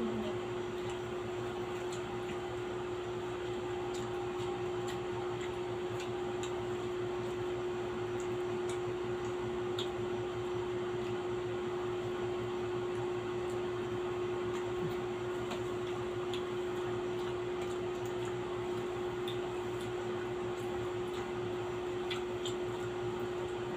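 Steady room hum with one constant mid-pitched tone, over which come scattered faint clicks and small mouth sounds of eating and utensils.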